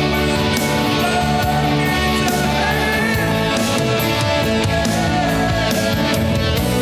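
Worship band music: guitars over sustained chords with a steady beat of drums and cymbals.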